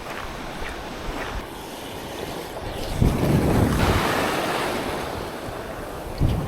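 Surf on a sandy beach: a wave breaks about three seconds in and washes out, fading slowly, with wind buffeting the microphone throughout.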